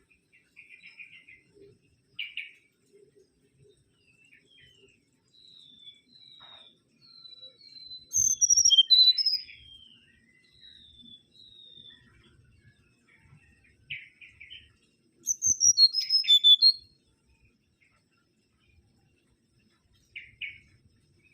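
Mangrove whistler singing: a series of short clear whistled notes, each sliding down in pitch. Twice there are loud clusters of sharper, higher notes, and short raspy chirps come in between.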